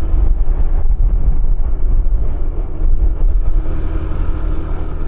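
Motorcycle engine running steadily, with heavy wind rumble on the microphone.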